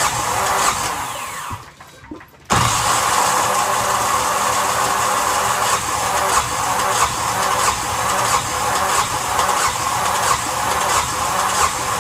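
Starter motor cranking a Yanmar SB12 single-cylinder marine diesel, which turns over with even knocks but does not fire after a fuel-line repair. The sound drops away briefly about two seconds in, then resumes abruptly.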